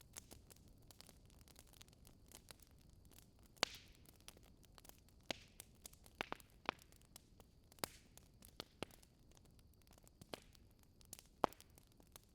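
Wood fire crackling in a fireplace, quietly: irregular sharp pops and snaps over a faint hiss, the loudest pops a few seconds in and near the end.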